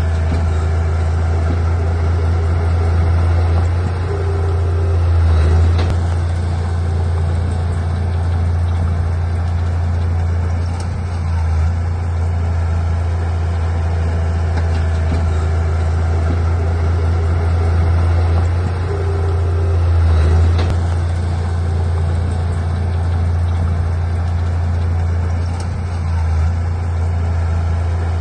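Heavy diesel engine of earthmoving machinery running steadily with a deep hum, swelling briefly twice as it works.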